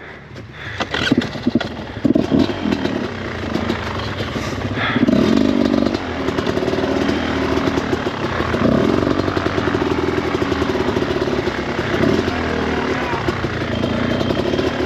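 Enduro dirt bike engine running at low revs on a descent, the throttle opened in several short surges that make the engine note rise and fall, with a few sharp knocks early on.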